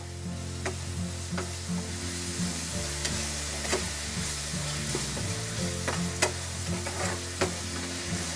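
Onions, green chillies, curry leaves and ginger-garlic paste sizzling in hot oil in a steel frying pan, while a metal spoon stirs and scrapes against the pan with sharp clicks about once or twice a second.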